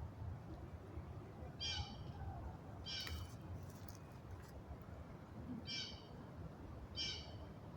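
Blue jay calling: four short, harsh calls spaced a second or more apart, over a faint low background rumble.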